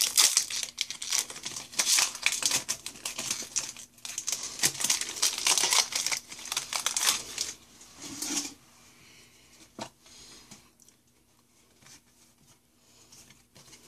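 Foil wrapper of a Pokémon card booster pack crinkling and tearing as it is opened by hand, for about eight seconds, then only faint handling sounds.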